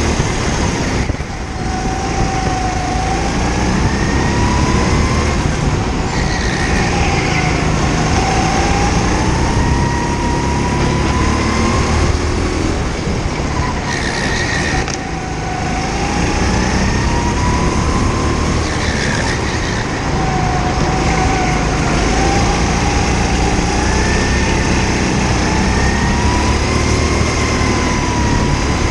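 Indoor go-kart engine heard from onboard the kart. Its pitch climbs steadily as the kart accelerates and drops sharply when the throttle is lifted for corners, again and again.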